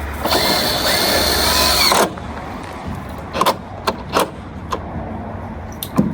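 A power drill running in one burst of just under two seconds, its motor whine dipping and rising, then several short, sharp knocks.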